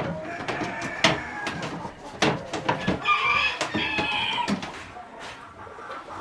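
Chickens clucking and calling, with a louder run of calls about halfway through, over sharp irregular clicks and knocks.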